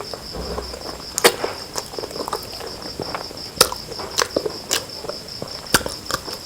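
Close-miked eating of biryani and curry: chewing with sharp, irregular mouth clicks and smacks.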